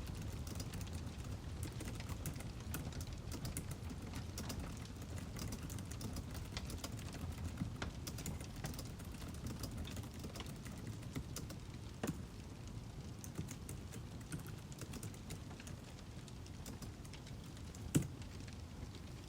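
Burning firewood crackling: a low steady rumble of flame with many small irregular snaps, and two sharper, louder pops, one about twelve seconds in and one near the end.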